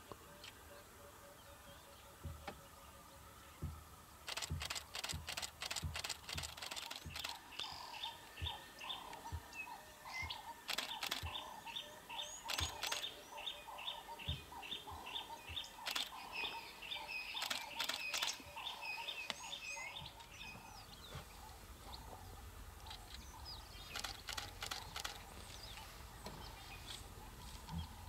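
Birds calling in the bush, one bird repeating a short chirp two or three times a second through the middle stretch among other scattered bird notes. Several quick bursts of sharp clicks come in between.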